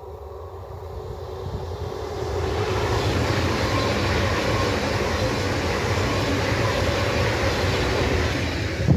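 ICE high-speed electric train passing at speed: a rushing noise of wheels on rail and air that builds over the first couple of seconds as it approaches, then holds steady while the long set of coaches goes by, and cuts off suddenly near the end.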